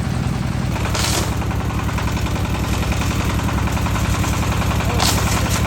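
An engine running steadily with a fast, even beat, which shifts slightly just before a second in. Two brief hissing rushes come about a second in and again near the end.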